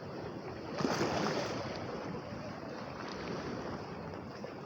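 Lake waves washing against the shore with wind buffeting the microphone; a louder surge of water about a second in.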